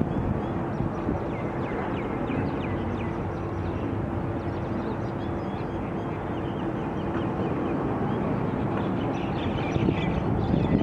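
Many small birds chirping in quick, short calls over steady noisy background rumble and a low, even hum.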